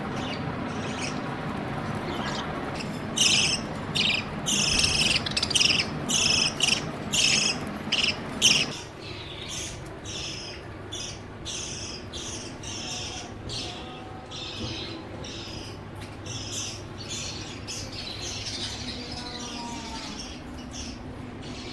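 Birds chirping in quick short calls, loud and dense in the first half, then softer and sparser. A steady low rumble runs beneath them and stops about nine seconds in.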